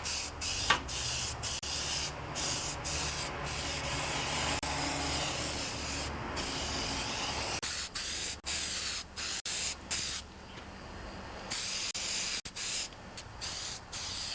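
Primer being sprayed onto a lawn tractor's mower deck: a steady spray hiss in passes that stop and start many times, with short breaks between them.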